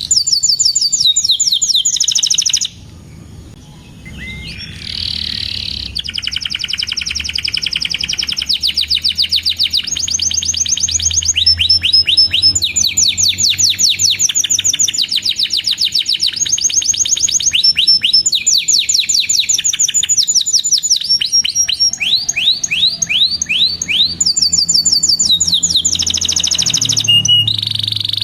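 Domestic canary singing: long, rapid trills of repeated down-slurred chirping notes, broken by a brief pause about three seconds in.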